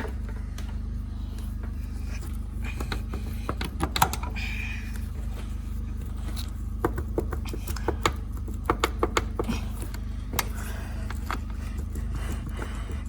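Metal clicks and clacks of hydraulic hose quick-couplers being disconnected, scattered irregularly over a steady low hum.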